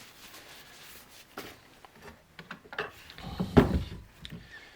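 Light clicks and taps from metal chainsaw parts and tools being handled on a workbench, with a cluster of louder knocks about three and a half seconds in.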